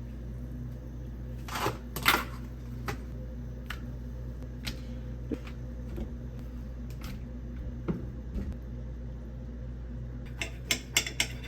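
Scattered clicks and knocks of kitchen utensils and dishes being handled during breakfast preparation, the loudest about two seconds in and a quick run of clicks near the end, over a steady low hum.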